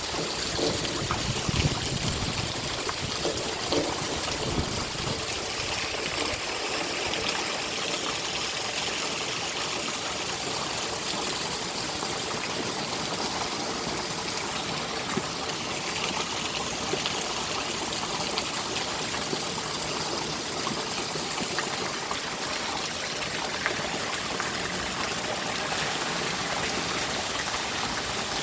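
Steady rain with running, trickling water: an even, continuous hiss, with a faint low rumble in the first few seconds.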